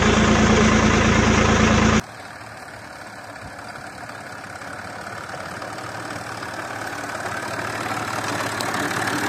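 Tractor engine running steadily. About two seconds in it cuts off abruptly to a much quieter, even rushing noise that slowly grows louder.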